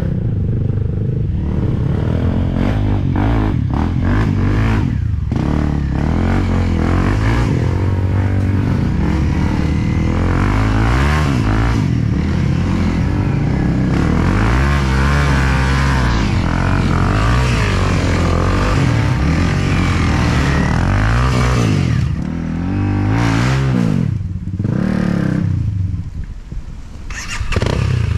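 Enduro dirt bike engine under constant throttle changes, revving up and falling back again and again, with short drops in engine level near the end as the throttle is rolled off.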